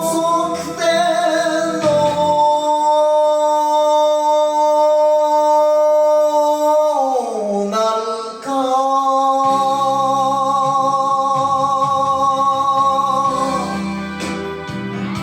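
A singer holds two long notes with a wide vibrato over guitar accompaniment. The first note slides down in pitch about seven seconds in, then the second note is held until near the end, when the guitar carries on alone.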